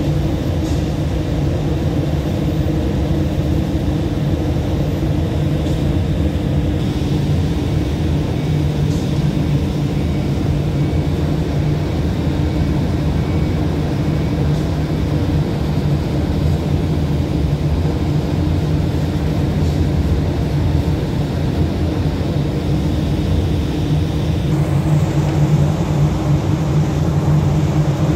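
Cargo ship's diesel engine running steadily, turning the propeller in a test run after dry-dock repair, with a steady low hum that grows a little louder near the end.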